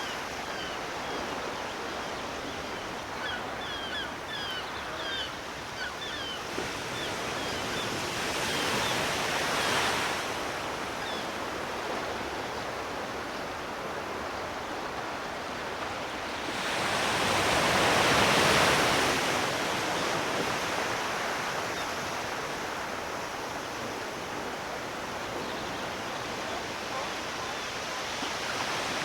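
Sea waves washing onto the shore: a steady wash of surf that swells twice, the second and louder surge about two-thirds of the way through.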